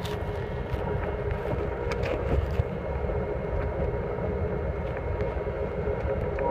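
Sleeper train running, heard from inside the carriage: a steady low rumble of wheels on the rails with a faint steady hum and occasional clicks.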